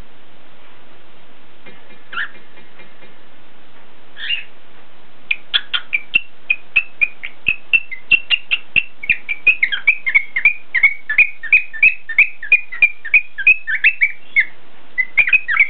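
Cockatiel chirping: two single chirps, then from about five seconds in a fast run of short, high chirps, about three a second.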